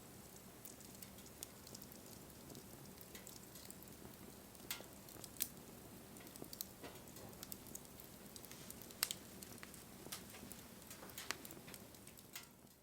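Wood fire burning, with a faint steady hiss and scattered sharp crackles and pops, a few of them louder; it fades out at the very end.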